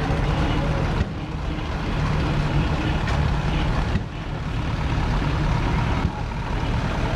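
Big vintage tractor engines running as they drive by, a steady low chugging. The sound changes abruptly three times.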